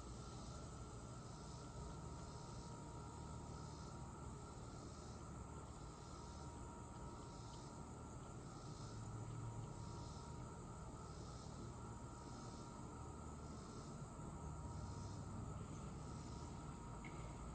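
Insects singing outdoors: one steady, unbroken high-pitched trill, with a second insect chorus pulsing about once a second beneath it, over a faint low rumble.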